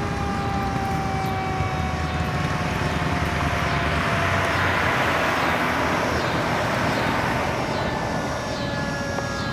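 Fire apparatus driving past on a response: diesel engine rumble and road noise that swell in the middle as the trucks pass, with siren tones slowly falling in pitch and, near the end, a fast repeating electronic siren.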